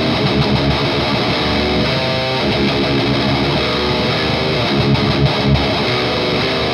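Electric guitar played through an overdrive pedal, distorted rock riffing with strummed chords and picked notes.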